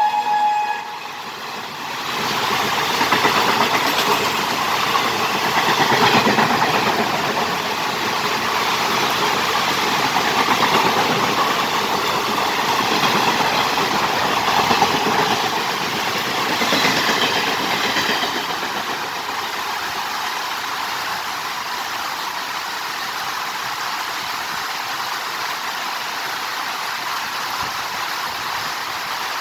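An express passenger train passes at speed: a loud rushing clatter of its coaches that rises about two seconds in and fades after about sixteen seconds. The tail end of its horn cuts off at the very start, and a steady hiss of heavy rain is left.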